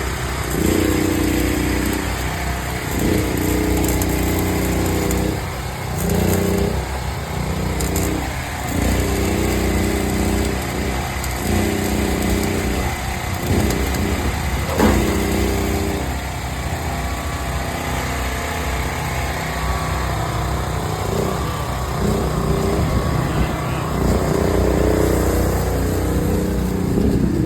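A motor running in repeated on-off bursts of a second or two, each burst at a steady pitch, with a single sharp knock about fifteen seconds in.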